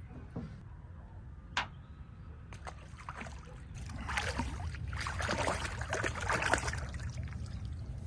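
Water splashing and sloshing, getting louder about four seconds in, over a steady low rumble, with a single sharp click about a second and a half in.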